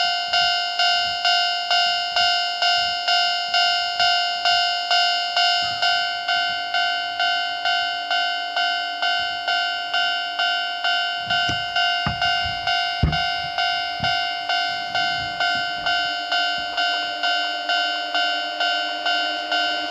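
Japanese level-crossing alarm ringing its repeated electronic 'kan-kan' bell, about two and a half strikes a second, warning of an approaching train. A few low thumps and rumbles come in around the middle.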